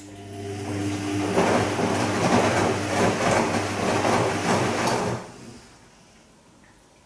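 Bosch Serie 2 VarioPerfect washing machine in its Silk programme running briefly after a click: a steady hum with a rushing noise that builds over about a second, holds for about four seconds, then dies away about five seconds in.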